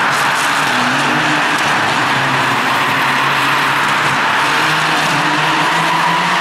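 Rally car engine running hard, its note stepping up and down, over a steady rush of tyre and road noise.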